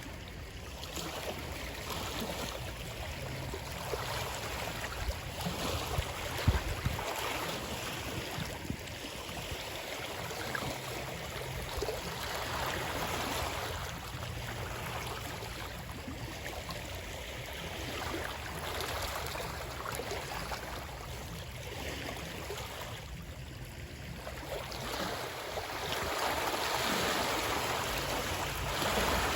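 Moving water, a steady rush that swells and eases every several seconds, with a single low knock about six seconds in.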